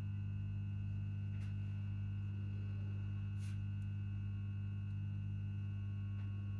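Transformer of a ScotRail electric train humming steadily: a deep, even drone with fainter higher tones above it. Two brief faint hisses come about one and a half and three and a half seconds in.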